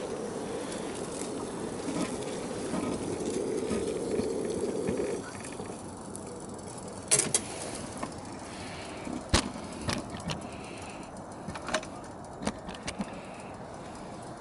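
Water at a hard boil over a burner, a steady rushing noise that cuts off abruptly about five seconds in as the heat is shut off. A few sharp clicks and knocks follow.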